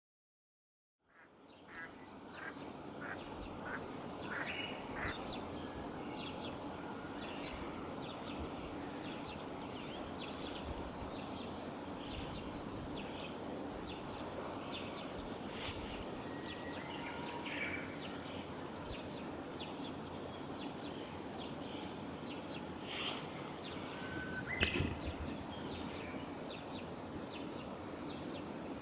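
Short, high-pitched bird calls, repeated irregularly and more frequent near the end, over a steady background hiss.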